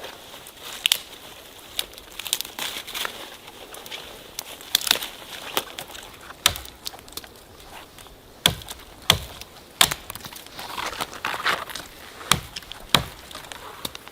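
Dry twigs and leaves crackling and snapping in irregular sharp cracks, a few louder snaps among many small ones.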